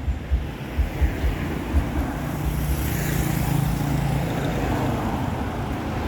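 Street traffic: a motor vehicle's engine hum grows and passes close by, loudest about three seconds in, after a few low thuds in the first two seconds.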